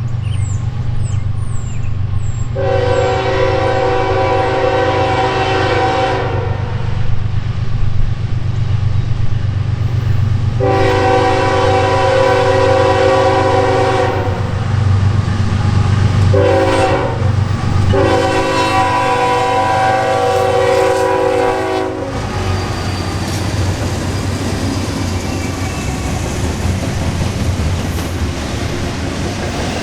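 Norfolk Southern GE ES44AC locomotive's air horn sounding the grade-crossing signal, long, long, short, long, over the steady low rumble of its diesel engine. After the last blast, about two thirds of the way in, the noise of the passing train grows.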